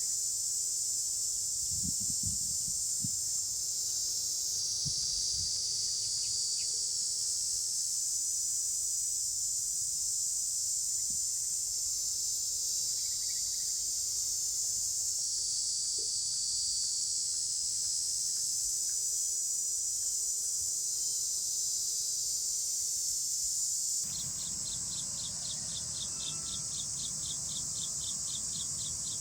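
Steady, high-pitched chorus of insects. About three quarters of the way through the sound changes abruptly, and a rapid, evenly pulsed trill joins in.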